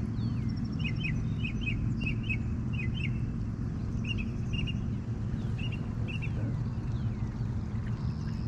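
A small bird chirping repeatedly, short falling notes in twos and threes, over a steady low rumble.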